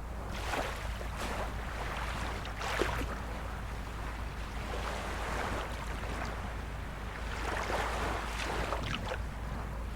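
Small waves of a calm sea lapping and washing ashore in a series of soft surges, over a steady low rumble.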